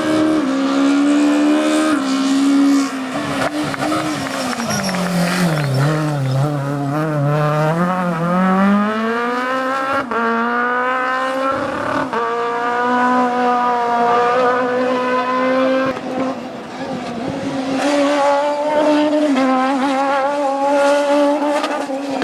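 Rally kit car engine revving hard on a stage. Its pitch sinks about a quarter of the way in as the car slows, then climbs back, with several quick gear changes that step the pitch.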